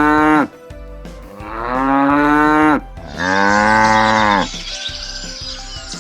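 Cow mooing: three long, loud moos, each dropping in pitch as it ends. The first ends about half a second in, the next two start about a second and a half and three seconds in, and the last is pitched higher.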